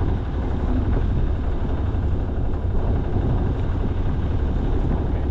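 A sailing yacht's engine running steadily as the boat motors along, a low, even drone.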